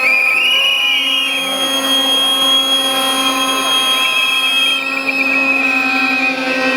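Shrill protest whistling: held whistle tones and warbling trills, over a steady low buzzing drone.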